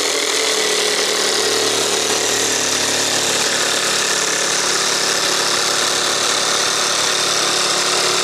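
Cordless Makita jigsaw with a carbide composite-decking blade running at a steady speed while cutting through a composite decking board, the motor's hum under the dense rasp of the blade.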